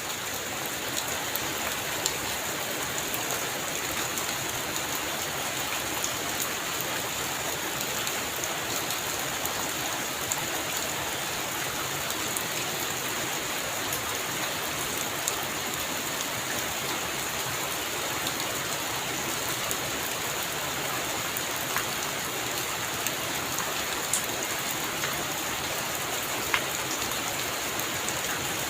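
Heavy rain falling steadily on a roof: an even hiss with scattered sharper drop hits.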